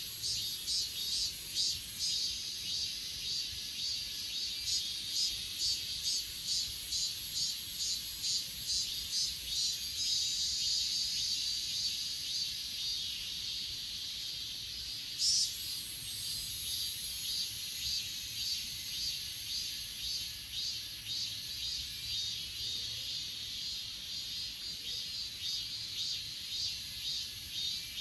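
Chorus of grass insects such as crickets, chirping high and in a rhythmic pulse of about three a second. About halfway through, a higher, steady buzzing insect call starts suddenly and becomes the loudest sound, then slowly fades.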